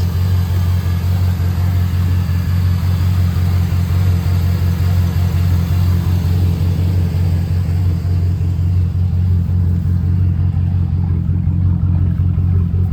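Chevy truck's small-block V8 idling steadily with a low, even hum while it warms up.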